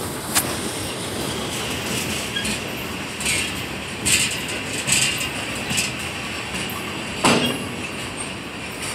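Freight train cars rolling past: a steady rumble of steel wheels on the rails, with brief high screeches from the wheels a few times in the middle. There are sharp clanks between the cars about a third of a second in and again, loudest, near the end.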